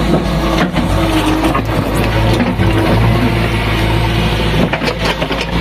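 Diesel engine of a JCB backhoe loader running steadily, with a few knocks and clanks over the engine sound.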